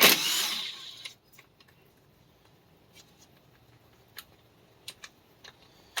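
Hand tools at work on a tractor's front axle: a short loud burst of rasping noise in the first second, then scattered light metallic clicks and taps.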